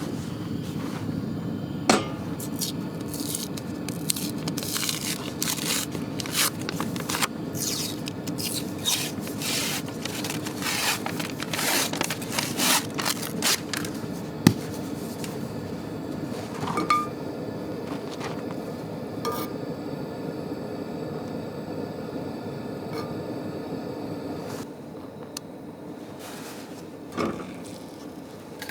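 Camp cooking: a quick run of scraping and rubbing strokes with a few clinks over a steady low rush of fire. The strokes thin out after about halfway, and the rush drops a little near the end.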